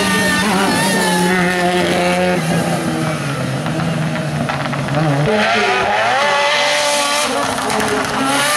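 Race car engine running hard at high revs on a hill-climb course, its pitch dropping in steps about two and a half and five seconds in as it changes gear.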